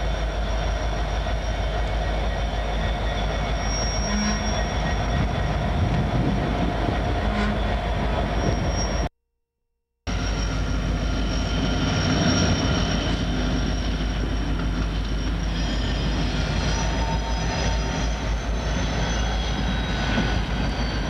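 Freight train's diesel locomotives rolling past with a steady rumble and a thin, high wheel squeal. The sound cuts out for about a second partway through.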